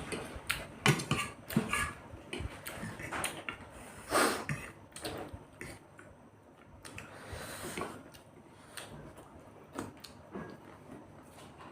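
Cutlery clicking and scraping against plates as chowmein noodles are eaten, a quick run of sharp clinks that thins out after about five seconds.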